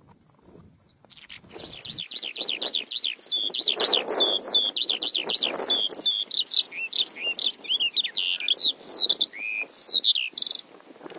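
Javan bush lark (branjangan) chirping in a fast run of high, down-slurred notes, several a second, with fainter rustling beneath; the calls cut off abruptly near the end.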